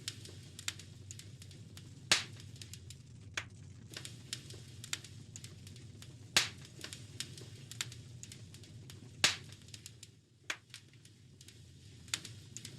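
Wood fire crackling in a fireplace: a steady run of small snaps over a low rumble, with louder pops about two, six and nine seconds in.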